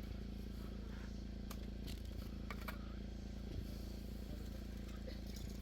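A steady low mechanical hum, with a few sharp clicks and scrapes about one and a half to two and a half seconds in.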